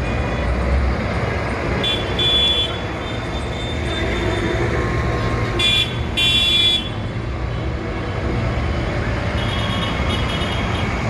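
Tractor engines running past steadily with horns tooting: a short toot about two seconds in, a double toot in the middle, and another near the end.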